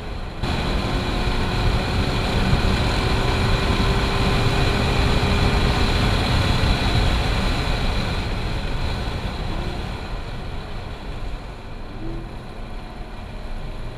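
Inside the cabin of a C7 Corvette Grand Sport at track speed: the 6.2-litre V8 running under load, with heavy road and wind noise. It gets sharply louder about half a second in and eases off after about eight seconds.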